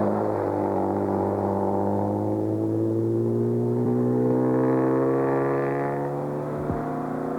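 Ford Zephyr rally car's engine pulling hard under acceleration, its note rising steadily for about six seconds, then easing off near the end with a brief click.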